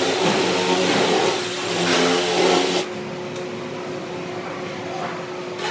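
A loud motor-driven machine running with a dense whirring noise, cutting off abruptly about three seconds in and leaving a quieter steady hum.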